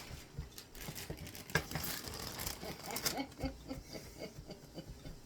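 Crinkling and crackling of a Doritos chip bag and the chips inside it, in irregular bursts that are busiest in the middle.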